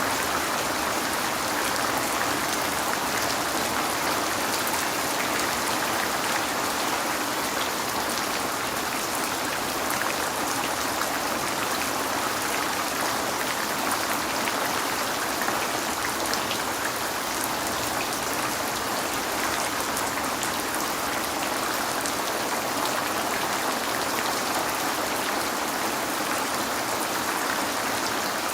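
Steady rain falling, a dense even patter with scattered small drop ticks, heard as rain on a window.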